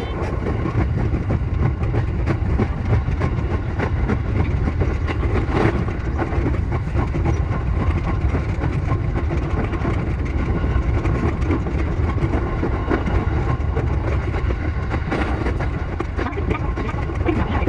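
E233-7000 series electric train running on the rails: a steady low rumble with a rapid, irregular clickety-clack of the wheels over the track, and a sharper knock about six seconds in.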